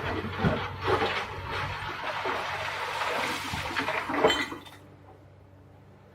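Rock and earth rushing and crashing as they pour or slide, with a few sharp knocks, over the low steady hum of a Komatsu PC350LC excavator's engine. The rushing stops abruptly about five seconds in, leaving only the engine hum.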